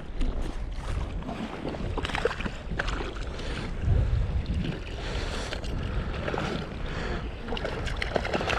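Wind buffeting the microphone over water lapping and splashing around a float tube, with scattered small knocks and clicks as a hooked fish is played in. A stronger gust rumbles about four seconds in.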